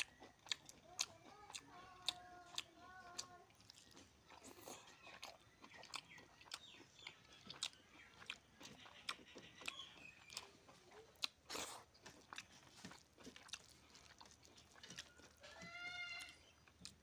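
A person chewing a mouthful of rice and chicken, with repeated wet mouth clicks and smacks and a few sharper crunches about two-thirds of the way through. A bird calls briefly in the background near the start and again near the end.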